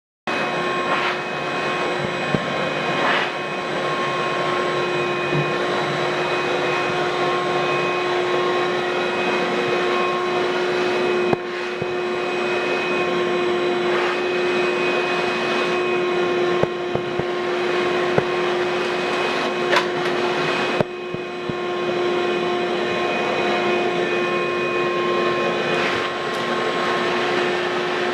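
Ridgid WD1450 wet/dry shop vacuum running steadily with a constant motor whine over rushing air, with small dips in level and a few light clicks as the floor nozzle is worked over the carpet.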